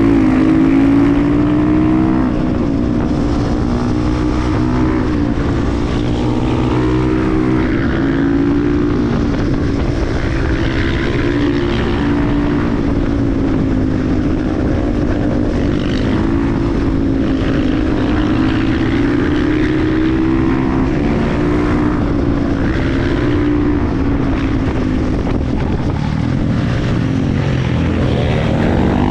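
KTM 350 EXC-F supermoto's single-cylinder four-stroke engine running under way, its revs swelling and easing gently with the throttle and climbing near the end.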